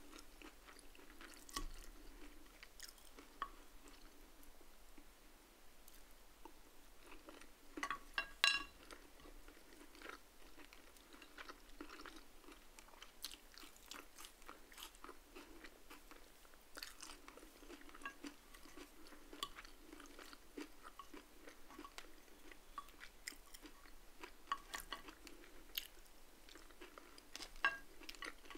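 Close-up mouth sounds of a person chewing and crunching food, with scattered small clicks. A louder cluster of clicks comes about eight seconds in.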